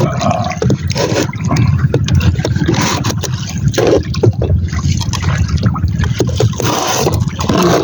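Water splashing and lapping against a small boat's hull, with a loud, uneven wind rumble on the microphone and scattered clicks and knocks.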